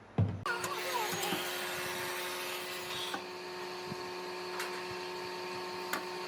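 Electric power tool motor running steadily with an even whining hum. It starts abruptly about half a second in, after a single thump, and a few light clicks sound over it.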